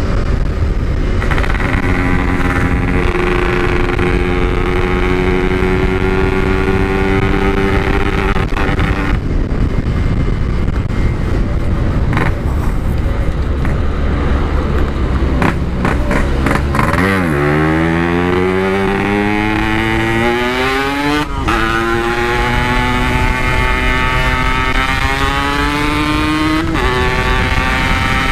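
Yamaha RX-King single-cylinder two-stroke running hard under load, its exhaust note climbing slowly in pitch through each gear. It drops sharply about two-thirds of the way through, then rises steeply again.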